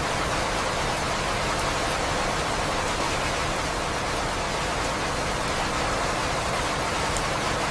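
Steady rain, a dense even hiss that does not change.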